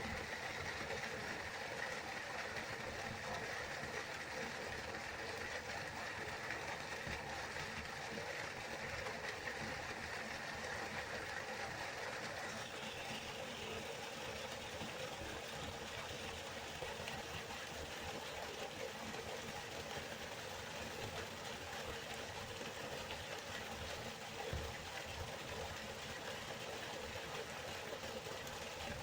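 Waterfall: a steady rush of falling water, its tone shifting slightly about twelve seconds in.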